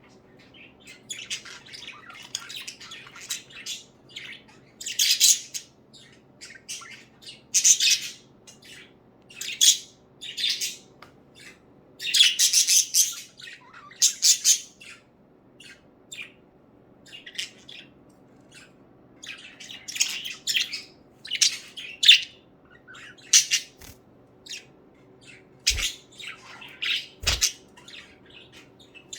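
Pet budgerigars chirping and chattering in short, high-pitched bursts, with two sharp knocks near the end.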